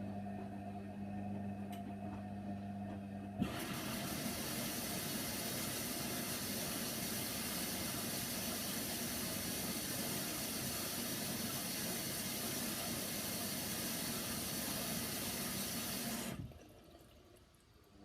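Hoover Nextra washer-dryer filling with water: the inlet valve opens with a click about three seconds in, water rushes in steadily for about thirteen seconds, then the valve shuts off. Before the fill, a steady low hum.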